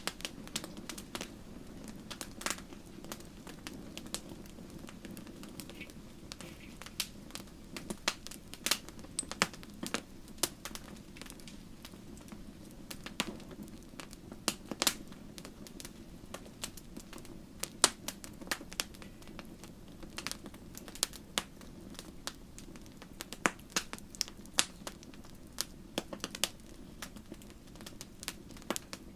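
Wood fire crackling in a fireplace: irregular sharp pops and snaps, a few of them louder, over a steady low rush of the burning.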